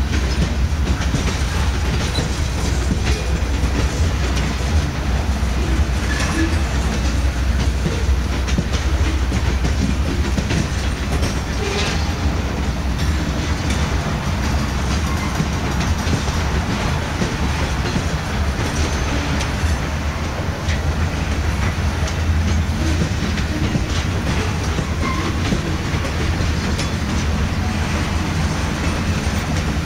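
Freight train of covered hopper cars rolling steadily past: a continuous low rumble of the wheels on the rails, with scattered clicks as the wheels run over rail joints.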